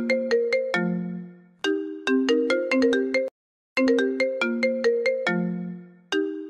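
iPhone ringtone playing its repeating melody of quick struck notes, each phrase ending on a held low note. The loop cuts off abruptly for a moment about three seconds in, then starts over.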